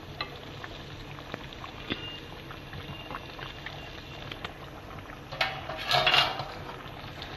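Chicken kebabs and masala bubbling in oil in a karahi over high heat, with small crackling pops. About five and a half seconds in there is a louder clatter of cookware.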